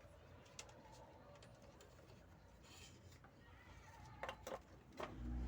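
Near silence with a few faint clicks and knocks from handling a panini press: one early, two close together about four seconds in, and another just before the end.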